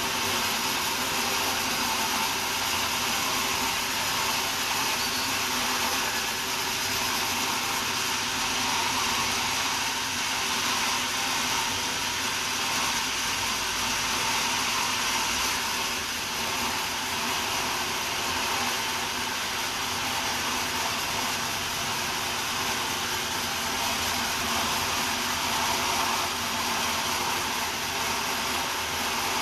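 Sawmill saw running steadily: a continuous whirring machine noise that holds an even level without pauses.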